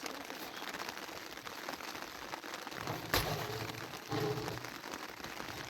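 Steady hiss of rain falling, with one sharp knock about three seconds in.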